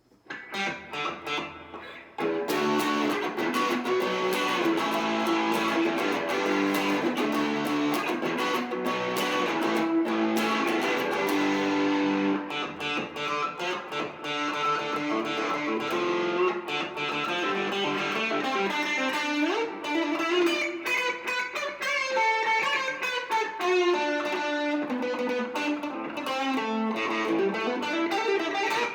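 Electric guitar, a left-handed Squier Classic Vibe '70s Stratocaster, played through a Marshall MG30DFX amp with the gain turned up for an overdriven classic-rock tone. A few picked notes open it, then from about two seconds in comes steady distorted riffing, moving into sliding single-note lead lines in the second half.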